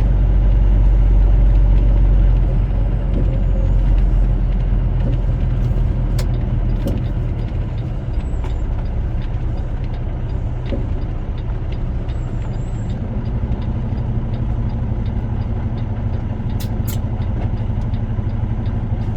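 Truck engine running under way: a steady low drone that eases off a little a few seconds in, with a few sharp clicks.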